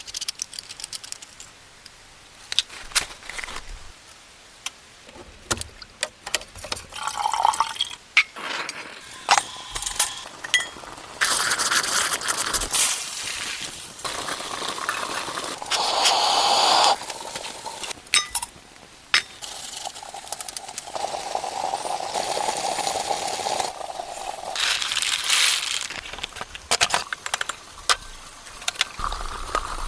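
Repeated small clinks and knocks of camp cookware, with several spells of water being poured or running, the longest lasting a few seconds.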